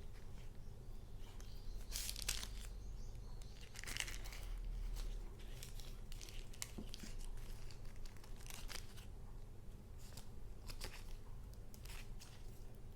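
Paper being handled by hand: short, irregular rustles of sheets and paper items, the longest about two seconds and four seconds in.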